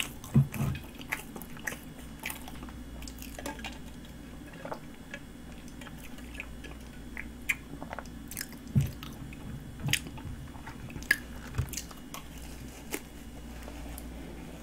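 Close-up chewing and biting of a cream-filled pastry horn: soft wet mouth clicks and smacks scattered throughout, with a few low thumps.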